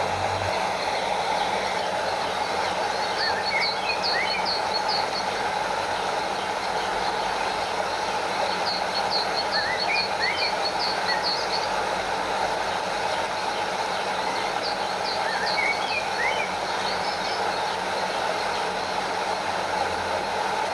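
Stream water flowing and lapping steadily, with the rush of a small waterfall. Short series of high chirping calls come three times over it, about six seconds apart.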